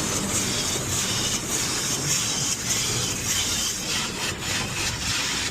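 Automatic car wash working over a car: a steady rushing of water spray and machinery with irregular slaps, typical of the wash brushes hitting the body.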